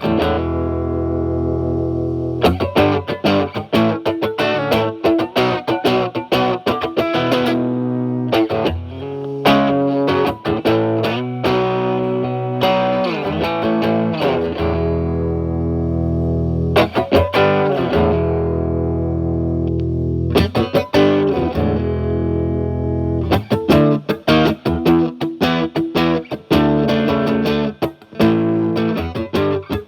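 Fender Stratocaster with single-coil pickups played through a Timmy transparent overdrive pedal, gain at about 12 o'clock, into a Marshall Valvestate amp's clean channel. Lightly overdriven electric guitar mixes picked single-note runs with chords left to ring, with a few sliding notes midway.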